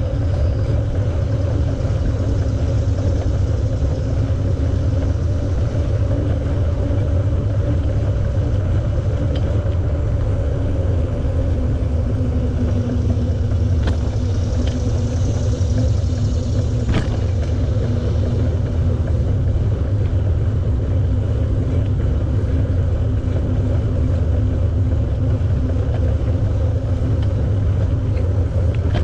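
Steady wind rumble on the microphone of a camera riding along on a moving bicycle, with a faint steady hum over it and a couple of light ticks a little past halfway.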